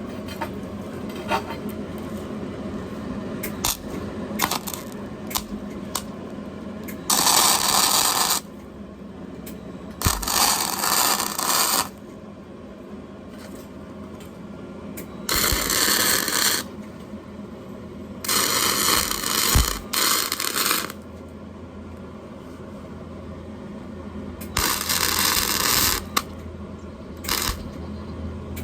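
Electric welding arc crackling and hissing in repeated short bursts, about six of one to three seconds each, as thin metal is tack-welded. A low hum and occasional small ticks come between the bursts.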